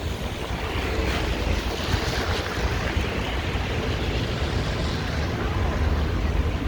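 Wind buffeting the microphone, with a low rumble, over a steady hiss of city traffic on a snowy street.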